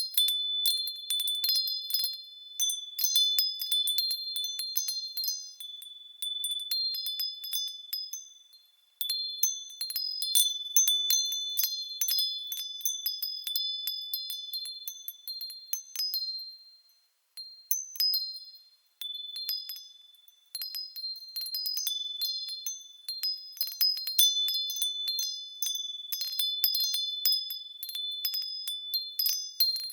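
Japanese furin wind bell ringing as the wind swings its clapper: irregular clusters of high, clear strikes that ring on, with a couple of brief lulls.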